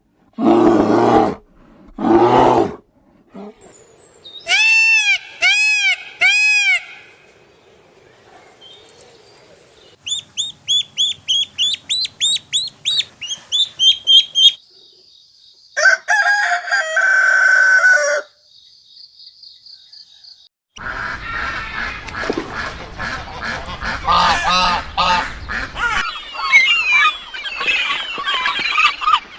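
A succession of different animal calls, mostly bird-like: three rising-and-falling pitched calls, then about a dozen quick repeated calls, a steady high tone and another pitched call. A busy mixed chorus of calls fills the last third.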